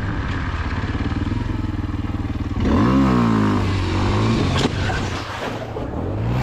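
Motorcycle engine running, then revving up sharply about three seconds in and easing off again, with a short knock about five seconds in.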